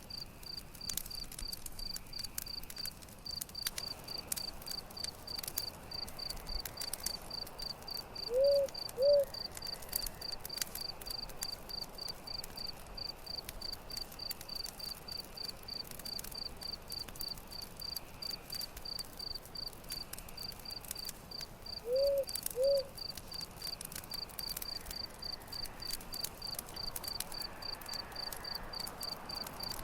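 Crickets chirping in a steady, even pulse over the light crackle of a campfire. A low two-note animal call sounds twice, about eight seconds in and again near twenty-two seconds; these are the loudest sounds.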